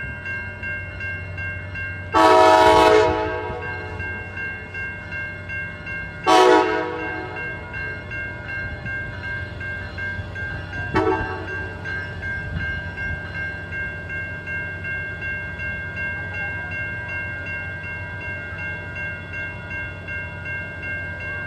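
Amtrak passenger locomotive's air horn sounding two blasts and then a brief third tap, over the locomotive's steady idling hum and high whine.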